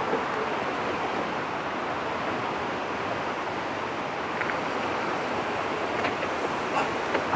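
Narrow-gauge railway carriage running along the track: a steady rumble and rush of wind, with a few sharp rail clicks coming in near the end.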